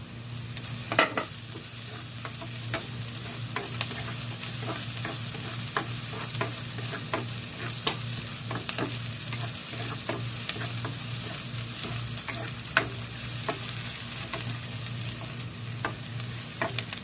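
Garlic, onion and ginger sizzling in hot coconut oil in a wok, with a spatula scraping and clicking against the pan as they are stirred.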